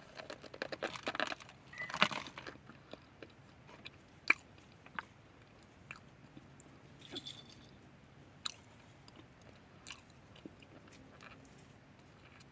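A person biting into chunks of cornstarch with a dense crackling crunch in the first two seconds, then chewing with scattered crisp clicks and crackles.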